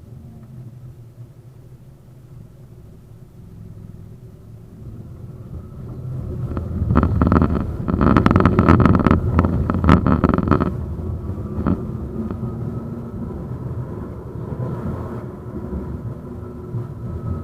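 71-931M Vityaz-M tram running on the track and picking up speed, its rumble growing louder. About seven seconds in, the wheels clatter loudly over the track in a rapid run of knocks for about three seconds, then the tram runs on more steadily with a faint high electric whine.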